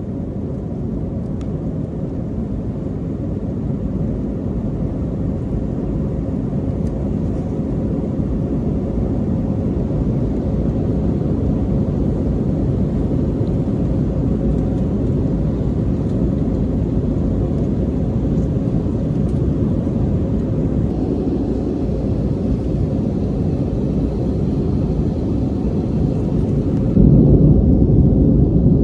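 Steady low roar of an Airbus airliner cabin, engine and air noise, growing slowly louder, with a sudden step up in loudness near the end.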